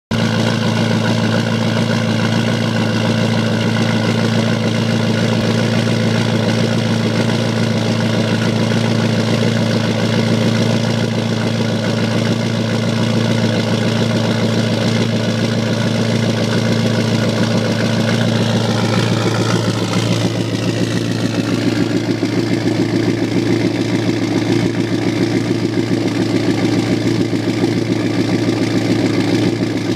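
Ford 6.0 Powerstroke V8 turbodiesel running steadily just after a cold start; about twenty seconds in its note changes and then settles into a new steady pitch.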